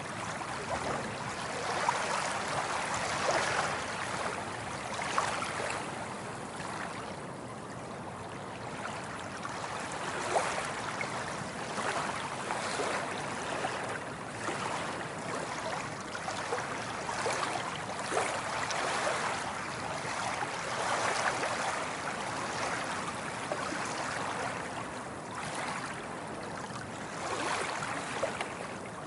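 Small waves lapping and splashing: a steady wash of water dotted with many small splashes, rising and falling gently in loudness.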